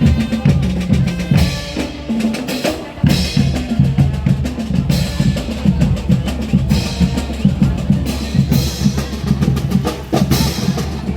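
A marching band playing drum-led music, with snare and bass drums beating steadily over pitched low parts that change note.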